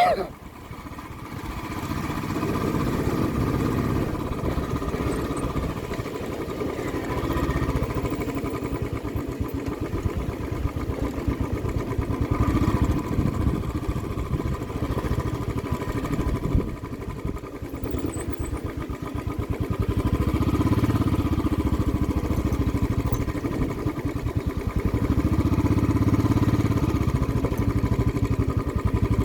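A vehicle engine running steadily, with a sharp click at the very start; the engine sound rises over the first second or two and then holds level.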